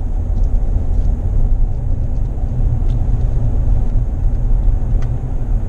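A car driving along at a steady pace, a low, even rumble of engine and road noise.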